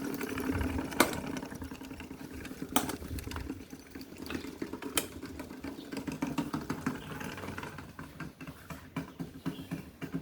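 Small electric fan motors running with a steady hum, with a few sharp clicks; the hum dies down about four seconds in, leaving faint irregular ticking.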